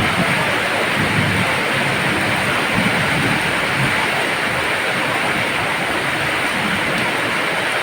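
Heavy rain pouring down steadily, a dense even hiss with a low rumble underneath.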